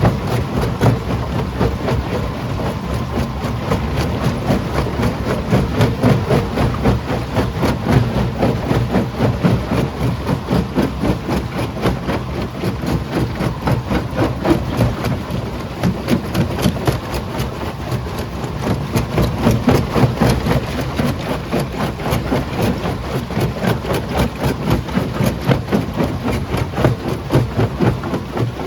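Primary jaw crusher running and crushing rock: a dense, continuous clatter of stone knocking over the machine's low running noise, with the loudness pulsing.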